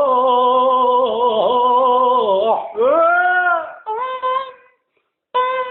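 A solo voice singing an Arabic song. It holds one long wavering note for about two and a half seconds, then sings a note that swoops up and falls back, then short phrases with a brief break near the end.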